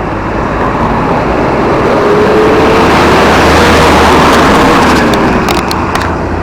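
A road vehicle passing by, its noise swelling to a peak about four seconds in and then easing off, with a faint tone sliding down as it goes past. A few sharp clicks come near the end.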